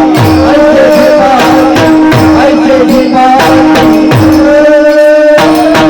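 Marathi devotional bhajan music: a steady held drone under a wavering melody line, with hand-drum bass strokes that slide down in pitch about once or twice a second.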